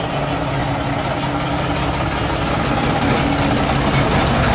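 A vehicle engine idling steadily, a low even hum with a constant pitch.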